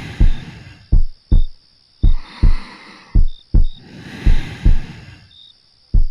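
A slow heartbeat in double thumps (lub-dub), about one beat a second, heard close as if with an ear to the chest. Soft, slow breathing swells in and out between the beats.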